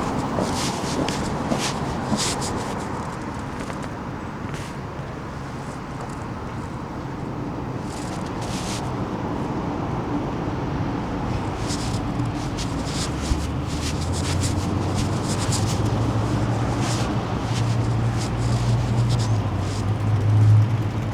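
Kawasaki Meguro K3's air-cooled parallel-twin engine running, with scattered light clicks in the first half. From about halfway the low engine note grows louder and rises slightly in pitch, with a brief louder swell near the end.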